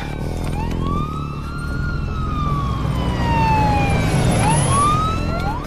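Police siren wailing: its pitch rises about half a second in, falls slowly over about three seconds, then climbs again near the end, with a low rumble underneath.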